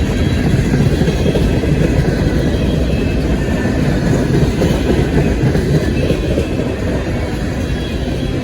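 A train rolling past: a steady, loud rumble of railcar wheels on the rails.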